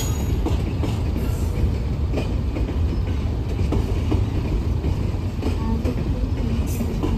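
Stack-train freight cars rolling past: a steady low rumble of steel wheels on rail, with scattered clicks as the wheels pass over rail joints.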